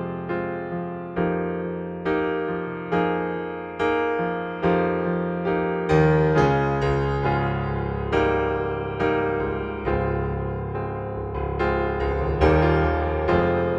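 Software keyboard instrument from Arturia V Collection 9 with a piano-like tone, playing a slow chord passage. A new note or chord is struck a little less than once a second and fades until the next.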